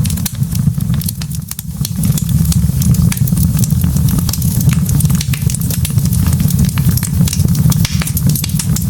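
Wood log fire burning in a fireplace, crackling with many irregular sharp pops and snaps over a steady low rumble of the flames.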